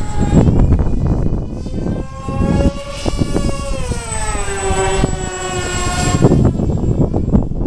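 Twin brushless electric motors spinning pusher propellers on an RC delta-wing plane in flight, giving a steady propeller whine that glides up and down in pitch and drops lower around the middle. Wind buffets the microphone throughout.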